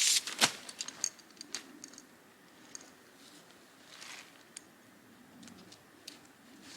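Camping gear being handled: a loud rustle and a sharp click at the start, a few light metallic clinks over the next second, then quieter rustling and scattered ticks.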